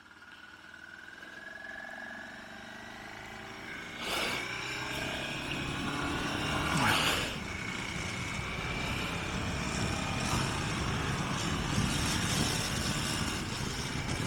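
Motorcycle engine pulling away and accelerating, its pitch slowly rising and stepping, with wind and road noise building steadily as speed increases. There are two brief louder rushes, about four and seven seconds in.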